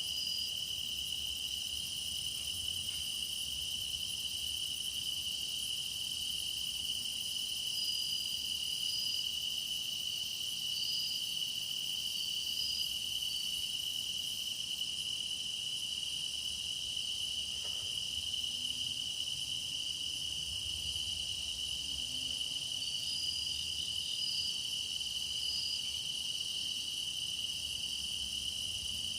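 Chorus of crickets and other grass insects singing, a steady unbroken high trill with short, higher chirps that come in now and then.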